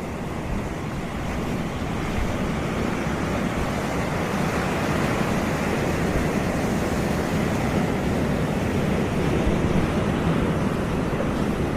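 Caribbean sea waves breaking and washing up on a beach, a steady wash that swells gradually louder, with wind buffeting the microphone.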